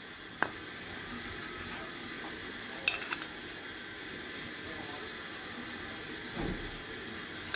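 Small clinks of a metal spoon against a coffee cup: one light click just after the start, a quick run of about four about three seconds in, and a soft low bump near the end, over a steady hiss.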